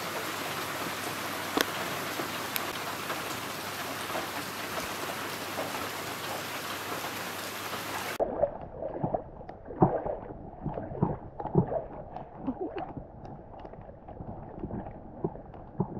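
Heavy rain falling on a loch's surface: a steady, even hiss with a couple of sharper drop ticks. About eight seconds in it cuts to a closer, quieter sound of irregular knocks and clatters.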